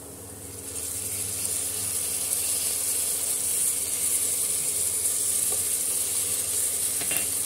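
Ginger-garlic paste and sliced onions sizzling in hot oil in a pressure cooker. The sizzle swells up within the first second as the paste hits the oil, then holds steady.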